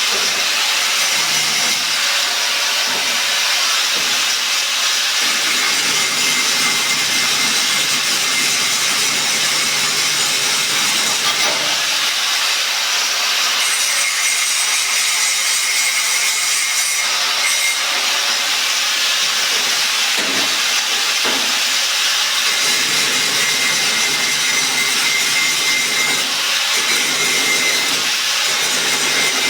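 Electric arc welding on a padlock: a steady, unbroken crackling hiss from the arc.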